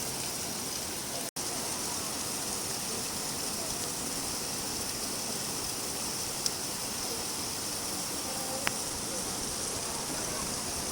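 Steady rain falling, an even hiss, with two sharp drip ticks in the second half. The sound cuts out for an instant a little over a second in.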